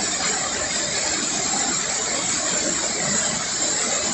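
Small waterfall pouring into a pool after heavy rain: a steady rush of falling water.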